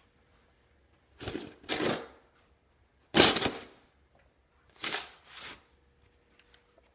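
Snow being disturbed in five short scraping, brushing strokes: two, then a single louder one, then two more.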